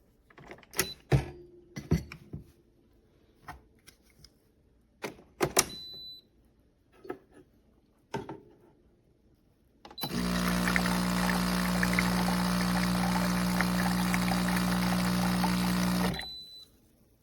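A few scattered clicks and knocks of handling, then a De'Longhi Magnifica Start espresso machine runs for about six seconds with a steady motor hum and crackle, typical of its built-in burr grinder grinding beans, before it cuts off suddenly.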